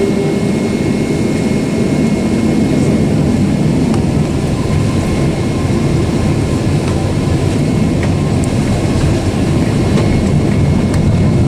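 Steady cabin noise inside a Boeing 767-400 airliner: the jet engines and the airflow make a dense, even rumble, with a faint high tone held steady above it.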